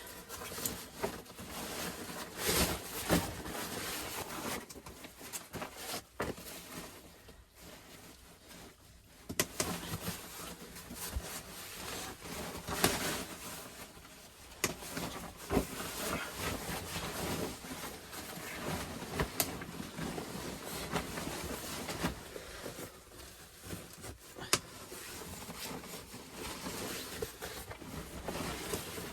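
Wood fire crackling, with now and then a sharp pop, over a steady rushing noise that swells and fades.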